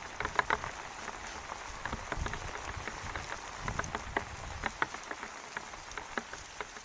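Steady rain falling, with many separate drops tapping sharply close by over the hiss of the downpour.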